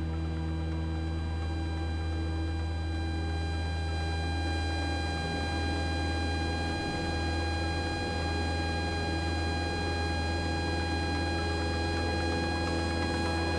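Single-engine Cessna 172's piston engine and propeller droning steadily in the cockpit, a deep hum with a stack of steady engine tones above it.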